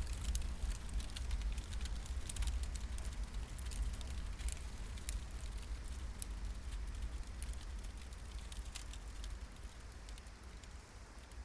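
Wood campfire crackling, with scattered sharp pops over a low, steady rumble.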